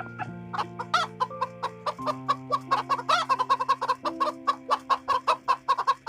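Chickens clucking in quick repeated short calls, over background music with steady held chords.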